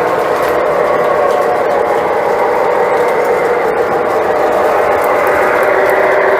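Lionel model train running on the layout track, a steady, unchanging hum and rumble.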